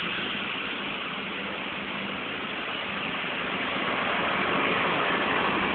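Passenger train coaches rolling past along a station platform: a steady rushing rumble with a low hum under it, growing a little louder about four seconds in.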